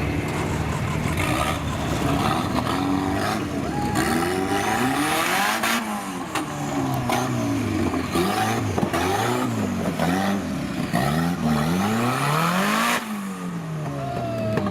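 Off-road 4x4's engine revving up and falling back again and again, its pitch rising and dropping several times in a row.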